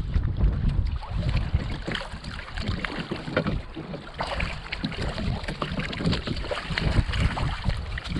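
Wind buffeting the microphone on a kayak at sea, a constant low rumble, with water splashing and slapping against the plastic hull in irregular crackles.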